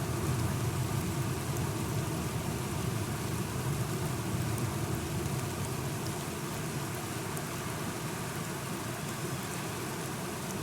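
Steady rain falling, with faint scattered drop ticks over a low, continuous rumble. It eases off slightly toward the end.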